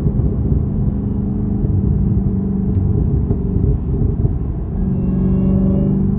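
Dodge Charger SRT Hellcat Redeye's supercharged 6.2-litre Hemi V8 running with a steady deep rumble; a thin, high supercharger whine rides over it from about five seconds in.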